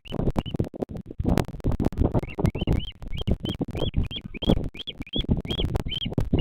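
Bearded vulture chick peeping: a run of short, high rising-and-falling calls, about two or three a second, over irregular low rumbling and rustling.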